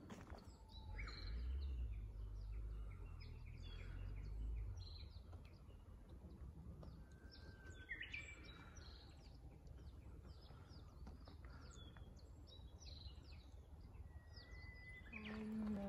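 Wild birds singing and calling in a woodland, many short chirps and whistles scattered throughout, with a low rumble during the first few seconds.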